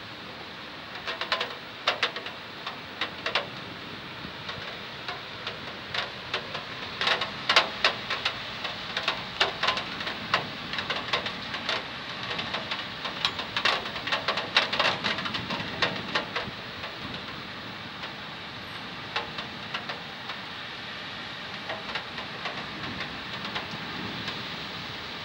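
Steady rain hiss with heavy drops tapping sharply on a hard surface. The taps come thickest in the first two-thirds, then thin out to a steadier patter.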